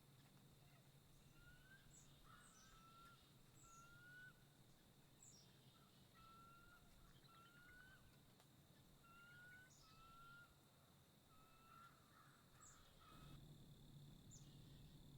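Faint birdsong: a string of short rising whistled notes, about one a second, mixed with thin higher chirps and quick high downward notes, over a steady low hum.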